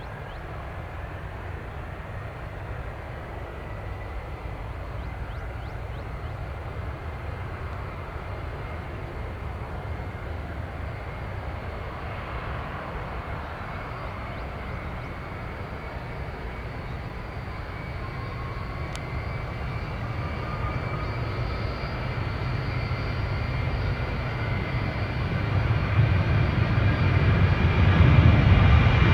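Jet airliner engines: a steady low rumble with a faint whine that rises slightly in pitch, growing louder over the last several seconds.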